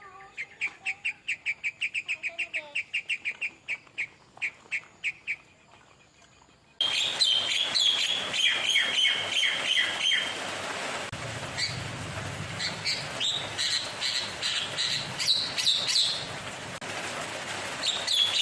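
Caged songbird singing: a fast run of short, evenly repeated chirps for about five seconds, then after a brief pause an abrupt switch to louder, busier varied song with a held whistle and quick chirps.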